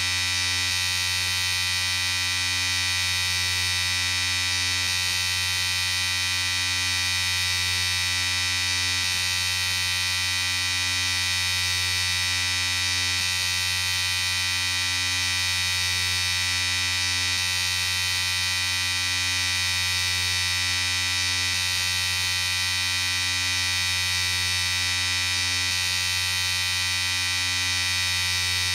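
Electric shaver running steadily with an even, unbroken buzz.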